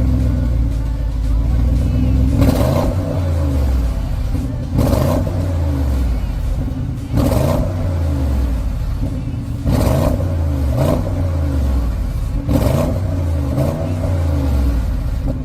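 Audi RSQ8's twin-turbo V8 exhaust, tuned for a 30% louder exhaust note, being revved in repeated sharp throttle blips about every two and a half seconds, the revs falling back toward idle after each one.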